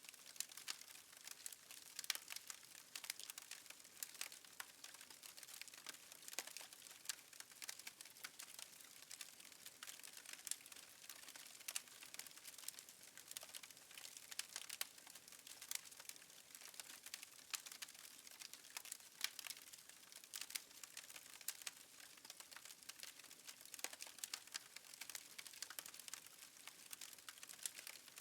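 Faint crackling of a fireplace fire: irregular sharp pops and snaps over a soft hiss.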